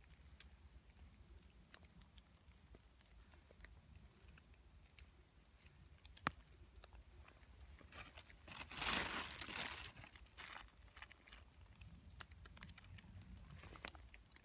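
Faint rustling and crinkling handling noise, with a single sharp click about six seconds in and a louder burst of rustling around nine seconds in.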